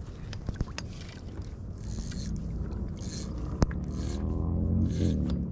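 Knocks and scrapes of handling on a kayak, over a steady rumble of water and wind, with short hissy rushes and one sharp click a little past halfway. A brief wavering tone sounds near the end.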